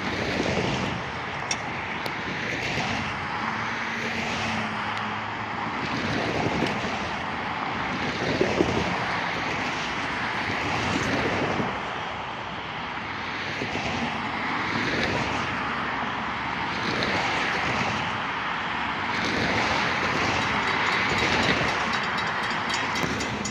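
EMD GP15-1 diesel-electric locomotive running under load as it hauls a train, a steady engine drone that slowly rises and falls in tone.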